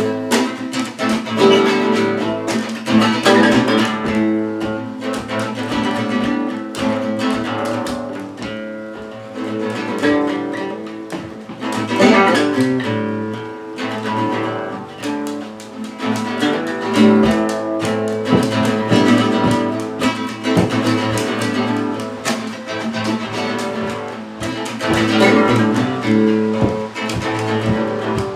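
Instrumental acoustic guitar music, strummed chords and plucked notes.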